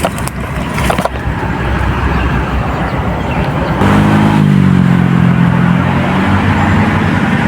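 A motor engine running steadily over a constant background hum, coming in loud about four seconds in, its pitch dropping slightly and then holding. There are a couple of sharp clicks in the first second.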